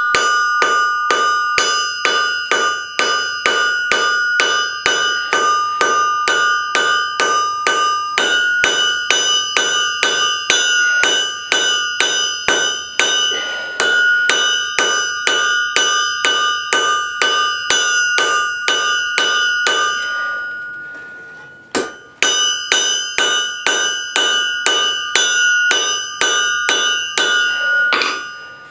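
Blacksmith's hammer forging steel on an anvil: a steady run of ringing blows, about three a second. They break off for a second or so just after twenty seconds in, then pick up again.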